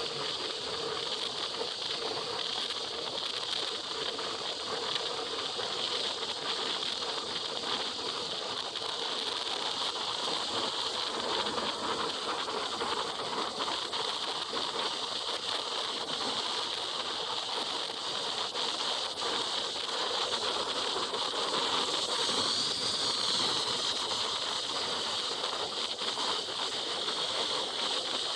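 Steady rushing hiss of wind and wet road noise on a motorcycle moving at speed through rain.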